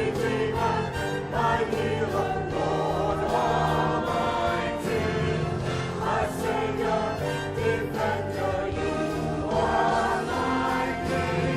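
Church choir singing a song, with instrumental backing under the voices.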